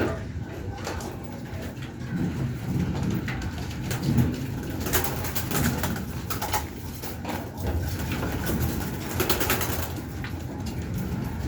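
Domestic pigeons cooing, low pulsing coos repeating throughout, with a few scratchy noises around the middle and near the end.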